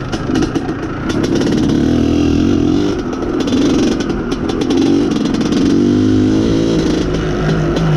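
IZh Planeta Sport's single-cylinder two-stroke engine pulling on the move, its revs rising and falling, with a scatter of short clicks. The mixture has just been richened, and it now gets enough fuel on the main jet.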